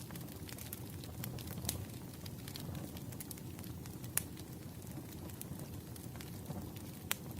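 Firewood burning: a low steady rumble with sharp crackles and pops scattered irregularly through it, the loudest pop about four seconds in.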